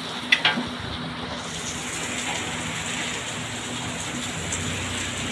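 Steady rain falling, a continuous hiss that grows a little brighter about a second and a half in. A couple of sharp knocks about half a second in.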